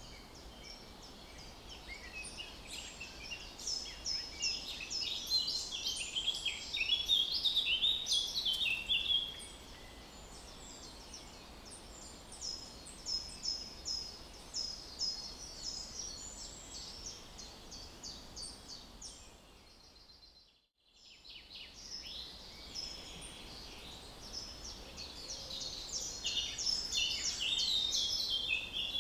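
Songbirds chirping and singing: many short, high chirps in quick series over a faint background hiss, busiest in two spells, with the sound briefly cutting out just past halfway.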